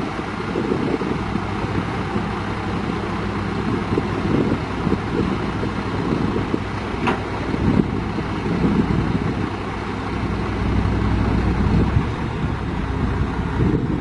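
Heavy diesel engine of construction equipment running steadily, swelling somewhat louder near the end, with a single short click midway.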